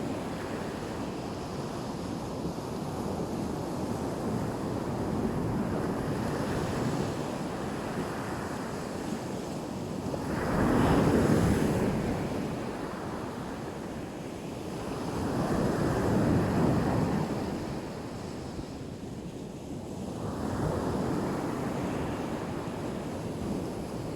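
Sea waves breaking and washing onto the beach, a steady rush of surf that swells three times as bigger waves come in a few seconds apart, the first of them the loudest.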